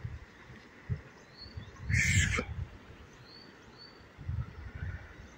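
Small birds chirping outdoors in short rising calls, over scattered low thuds. About two seconds in, a brief louder hissy noise stands out above the chirps.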